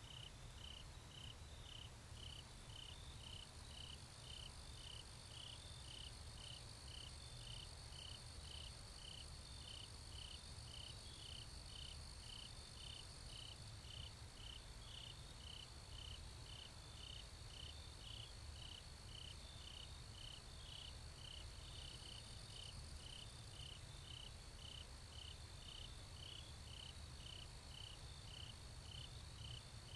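A cricket chirping steadily, about two short high chirps a second, faint.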